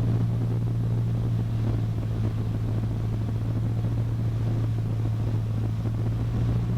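Cessna 152's four-cylinder Lycoming engine and propeller running at a steady drone, heard from inside the cabin.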